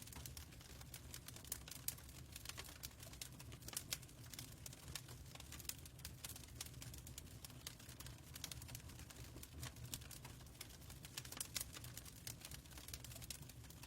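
Fireplace crackling: a continuous scatter of small, irregular pops and snaps over a low steady rumble.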